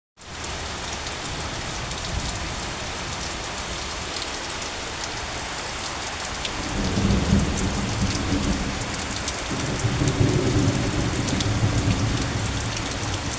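Steady rain falling, with fine patter of drops throughout. A deep low rumble joins about halfway through and carries on to the end.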